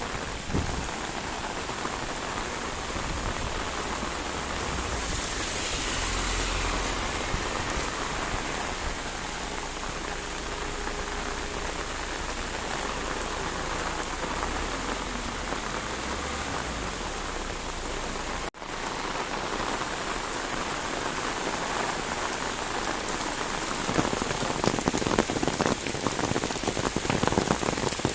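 Heavy rain falling steadily, an even hiss of drops; it cuts out for an instant about two-thirds through, and near the end the drops hit closer, louder and denser.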